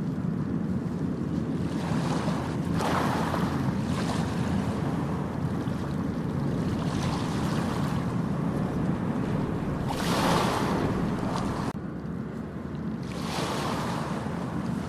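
Ocean waves washing onto a beach over a steady low rumble of surf and wind on the microphone, with louder surges of wash a few seconds in, about two-thirds through and again near the end.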